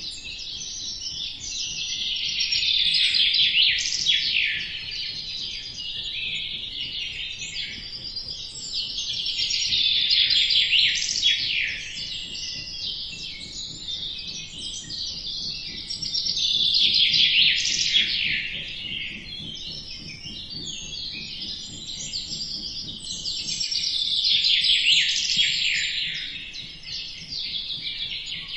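Many small birds chirping and twittering at once, a dense chorus of rapid, sweeping high notes. The chorus swells louder and fades back four times, about every seven seconds.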